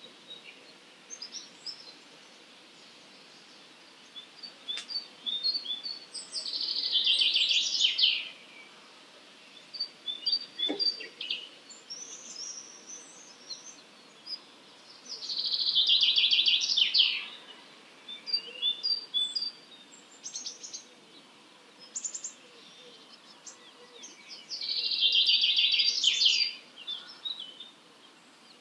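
A songbird repeating the same loud, rapid trilled song phrase three times, about nine seconds apart, each lasting about two seconds, with other birds chirping briefly between the phrases.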